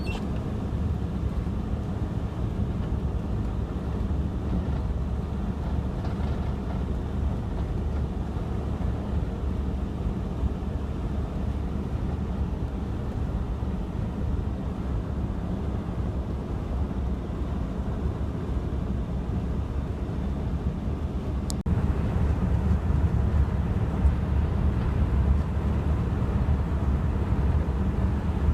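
Steady low rumble of a vehicle driving on a snowy road, with tyre and engine noise. About three-quarters of the way through, a click comes and the rumble turns suddenly louder.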